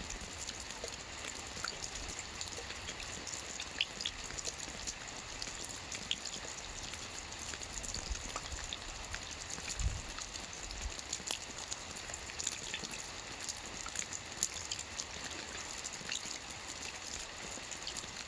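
Soft rain falling steadily on a roof, many separate drops pattering, with a dull low thump about ten seconds in.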